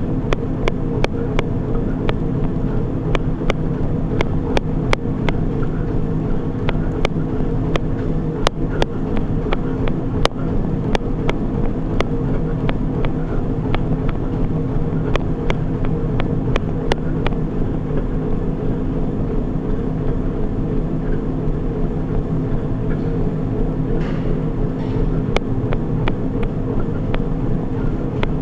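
Treadmill in use for running: a steady motor and belt hum with regular, quick footfalls striking the deck several times a second.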